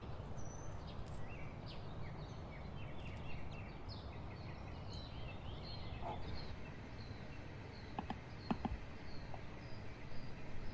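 A small bird chirps over a steady low outdoor hum, giving short high notes again and again at about two to three a second. A few light clicks come near the end.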